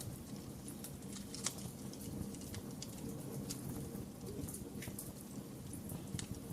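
Wood fire crackling: irregular sharp pops and snaps, roughly one a second, over a steady low rumble of burning.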